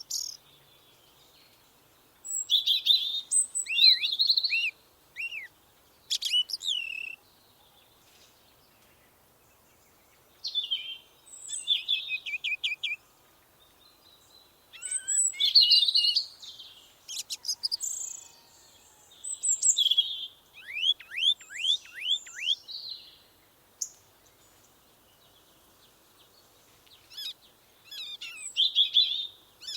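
A songbird singing in short, varied phrases of rapid whistled and down-slurred notes, about six phrases with pauses between them.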